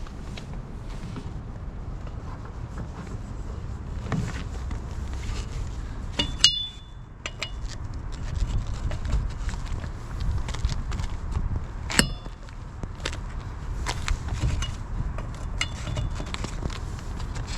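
Metal hand tools clinking and knocking on car wheel parts during a tyre change, with two louder ringing metal strikes about six and twelve seconds in, over a low steady rumble.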